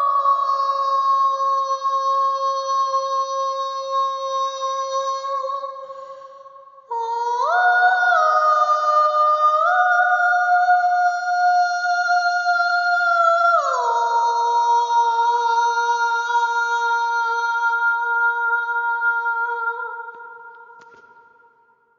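A soprano voice singing long sustained notes without words, unaccompanied. One held note dips slightly and fades about six seconds in. Then a new phrase steps up twice, drops to a lower note about halfway through and is held until it fades out near the end.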